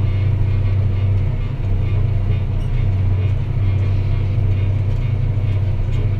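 Deutz-Fahr Agrotron 165 MK3 tractor engine running steadily under load while pulling a plough, a constant low drone.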